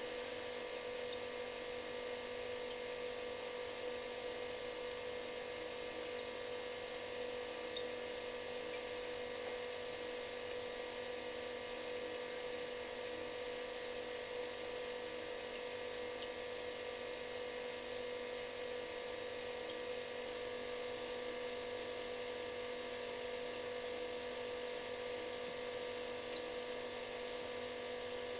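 Refrigerator running with a steady buzzing hum: one strong mid-pitched tone and several fainter higher ones over a soft hiss, unchanging throughout.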